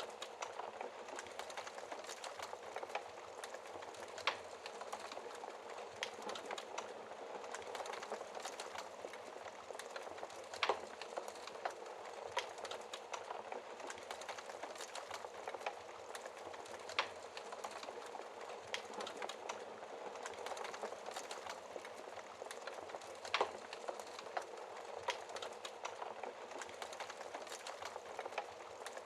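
A fire in a fireplace crackling over a steady hiss, with irregular small pops and a few louder, sharper ones.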